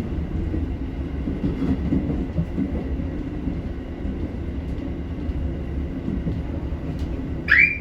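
Dōnan Isaribi Railway KiHa 40 diesel railcar running, a steady low diesel engine rumble with wheel and rail noise. Near the end comes one brief high squeal that rises in pitch and then holds.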